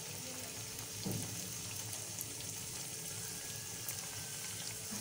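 Keema-stuffed dough patty shallow-frying in hot oil on a low flame: a steady sizzle with small crackles.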